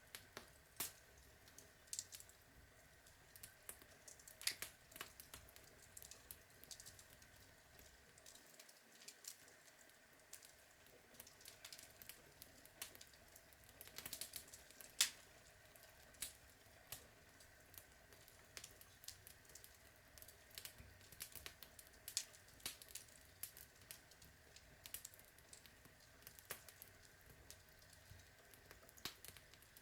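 Outdoor wood log fire crackling: irregular sharp pops and snaps from the burning logs over a faint hiss, with a louder pop about fifteen seconds in.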